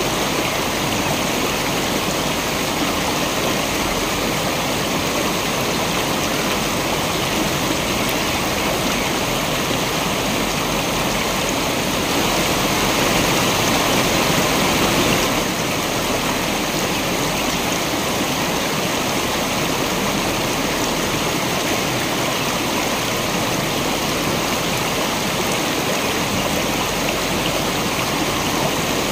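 Waterfall: a steady rush of falling water, a little louder for a few seconds around the middle.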